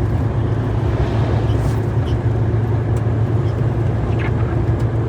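Steady low drone of a Renault T-range truck's diesel engine and tyre noise heard from inside the cab while driving at a constant speed.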